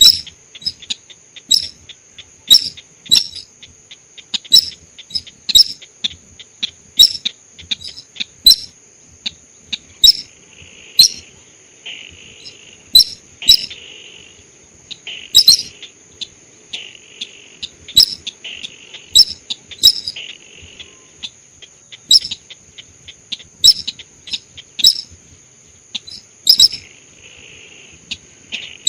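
Sintar (sintaran sawah) bird-lure call: short, sharp notes, often in pairs, repeated about once a second. A steady high insect-like drone runs underneath.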